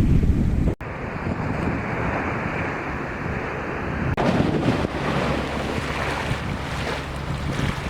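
Sea waves washing against the shore, with wind buffeting the microphone. The sound changes abruptly about a second in, and a steady low hum joins in the second half.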